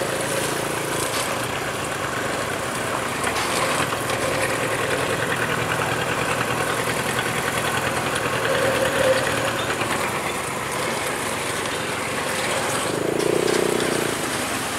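Vehicle engine running steadily with road noise.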